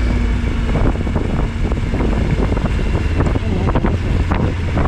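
Wind buffeting a helmet-mounted microphone at riding speed, over the low rumble of a Suzuki V-Strom 1000XT's V-twin engine and road noise.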